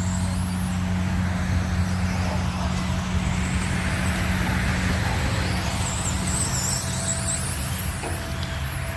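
Radio-controlled race cars running laps on an oval track, their motors making high whines that rise and fall as they pass. A steady low hum runs underneath.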